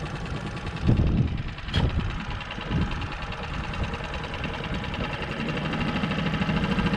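Small outboard motor running steadily, with three sharp knocks in the first three seconds; the engine hum grows louder toward the end.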